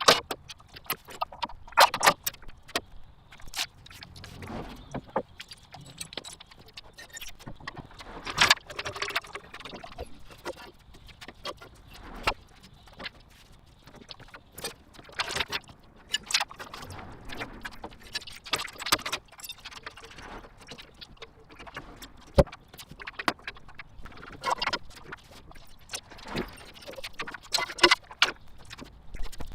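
Irregular metallic clinks and clatters of hand tools and parts being handled while a Honda B-series engine is taken out of a Civic.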